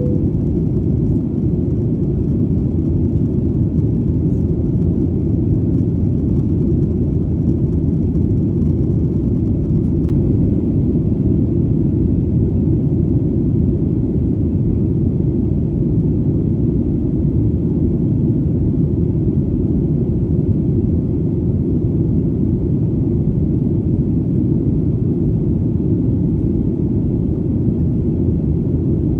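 Airplane engine rumble in flight: a steady, deep drone with no change in pitch or loudness.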